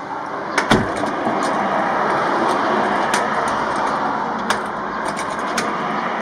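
A door thumps shut about a second in, followed by a few sharp clicks, over a steady rushing background noise.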